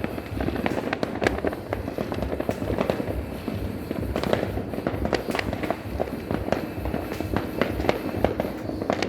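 New Year fireworks and firecrackers going off in a dense, continuous barrage of overlapping bangs and crackles.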